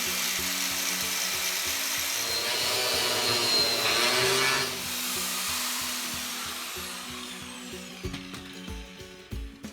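Power tool, most likely an angle grinder, working steel on the chassis rail for about five seconds, then released and winding down with a falling whine as the level fades. Background music with a steady beat runs underneath.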